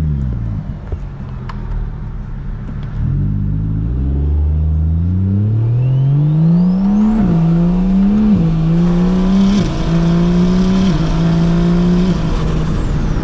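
Single-turbo BMW N54 3.0-litre straight-six in an E92 335i pulling away from a stop: the engine note climbs steadily through first gear, then goes through several quick upshifts, each a short drop in pitch followed by a climb. A high whistle rises with the revs about six seconds in and holds until near the end.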